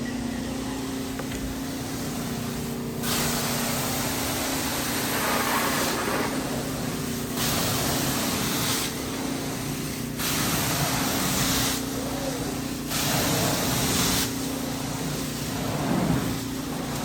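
Hot water carpet extraction: a steady machine hum runs throughout, and about three seconds in the extraction wand starts making passes, four hissing strokes of spray and suction, each lasting a second or two with short gaps between.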